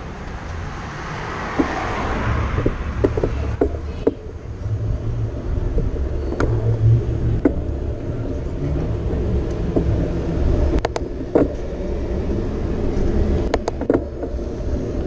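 Trek Marlin 7 mountain bike riding along a path, with a low, uneven rumble and scattered sharp clicks and rattles as it goes over bumps.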